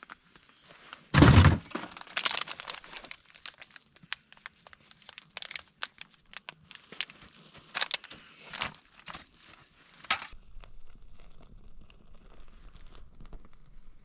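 A heavy thunk just over a second in, followed by a run of sharp snaps, cracks and crinkling that goes quieter about ten seconds in.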